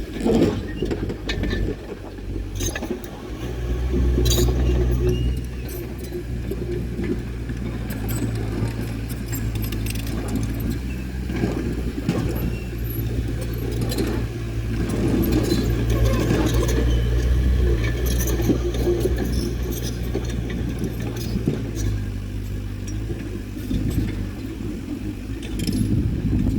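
Crawler bulldozer's diesel engine running steadily under load, getting louder about three seconds in and again around the middle, with metallic clinking and rattling from the steel tracks.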